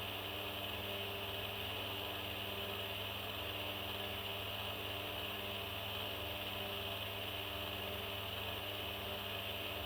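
Steady low hum under a constant hiss, with no calls or other events.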